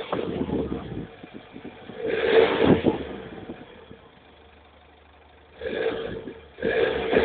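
Citroën C2 1.4 HDi diesel engine revved in four short blips from idle, heard at the exhaust. The second blip, about two seconds in, is the loudest; between blips the engine drops back to a low idle.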